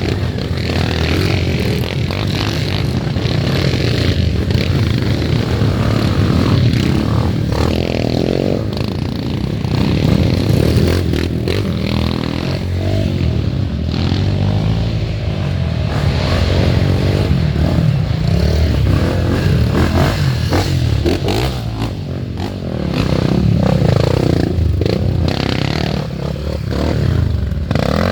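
Off-road dirt bike engines running and revving, the engine pitch rising and falling again and again.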